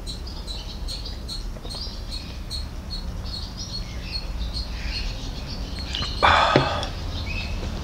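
Small birds chirping in short, high calls, about two or three a second, with a brief louder burst of noise about six seconds in.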